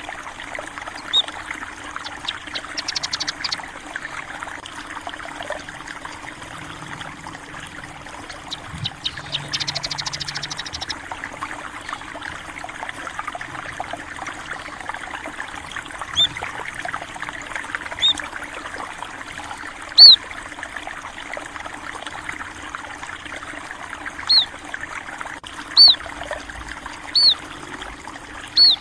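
Steady trickling flow of a small stream, with single short high chirps of small birds every second or two, the loudest about two-thirds of the way in. Two brief rapid chattering trills come in the first half.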